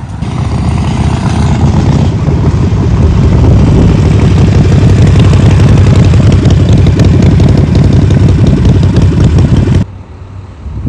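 Motorcycle engine running loud and steady, its low rumble building over the first couple of seconds, then cutting off suddenly about a second before the end.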